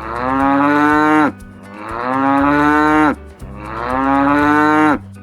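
Cow mooing three times, each call a long, loud low moo of a little over a second that dips in pitch at its end.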